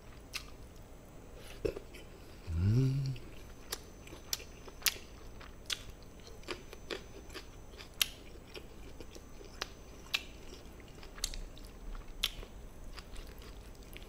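Close-miked chewing and mouth sounds of a person eating gochujang-marinated chicken, with sharp clicks scattered throughout. About two and a half seconds in, a short rising hum of the voice.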